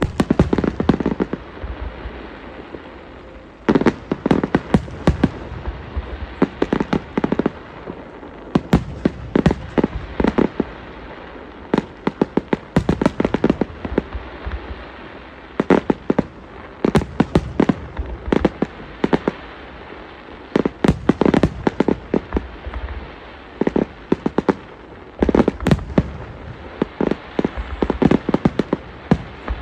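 Fireworks going off in quick clusters of sharp bangs and crackles, a fresh volley every second or two.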